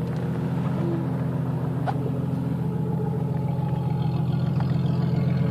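1992 Jeep Cherokee's 4.0-litre inline-six idling at operating temperature through a 2.5-inch exhaust with a Thrush Turbo muffler, a steady idle that is a little lopey.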